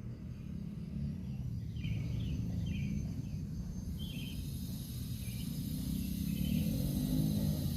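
Outdoor background noise: a steady low rumble with short, high chirps every second or two.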